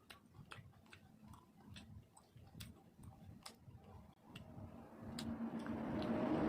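Wet, irregular mouth clicks and smacks of someone chewing soft food close to the microphone. From about four and a half seconds a steady humming noise swells and grows louder, drowning the clicks.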